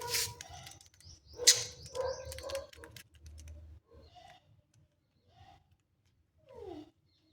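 Pet budgerigars chirping and chattering in short scattered calls, with clicks and sharp chirps in the first few seconds and a falling call near the end.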